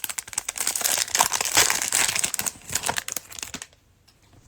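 Crinkling cellophane pack wrapper, handled and torn open: a dense run of crackling that stops about three and a half seconds in.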